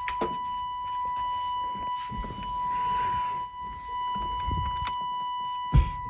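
Steady high-pitched warning tone from the pickup's cab, the kind sounded with the key in the ignition or the door open, with rustling and handling of keys; a sharp thump near the end, like the door or the driver settling in.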